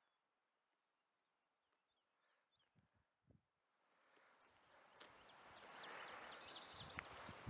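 Near silence at first, broken only by a few faint high chirps. From about four seconds in, wind noise on the microphone fades in and grows steadily louder. A faint high, steady insect-like chirring runs underneath.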